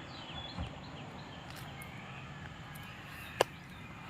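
Small birds chirping in short calls over a steady outdoor background noise, with one sharp click about three and a half seconds in.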